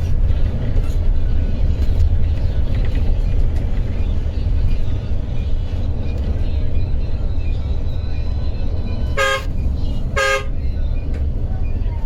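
Steady low rumble of an intercity coach driving on the highway, with two short blasts of a vehicle horn about a second apart near the end.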